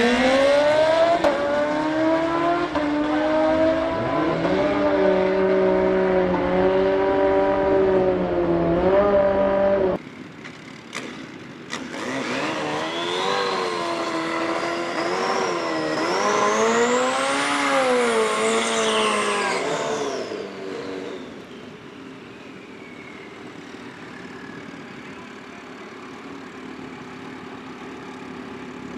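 Superbike engines under hard acceleration, revving and climbing through the gears. The sound cuts abruptly about ten seconds in to a second run, where a high whine rises sharply over the engine and then falls away. It then settles to a quieter, steady engine sound.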